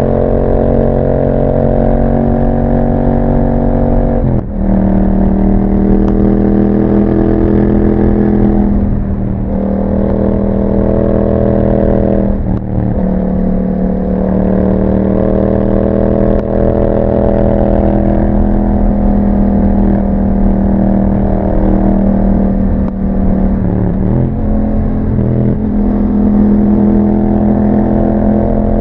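Yamaha MT-07's parallel-twin engine running through an aftermarket Akrapovic exhaust while riding at a steady road pace. The engine note drops sharply and recovers about three times, as at gear changes.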